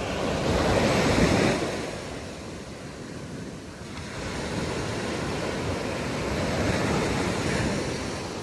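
Waves breaking on a beach and washing up the sand, swelling loudest about a second in and again around seven seconds in.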